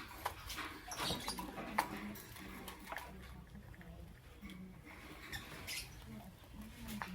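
Lovebirds giving short high chirps and squeaks among scattered clicks and scratchy patter, with a low broken hum underneath.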